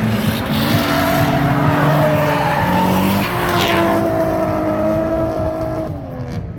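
Drift cars sliding past with engines revving hard on the throttle and tyres squealing; the engine note holds high, shifts up and down, then falls away near the end.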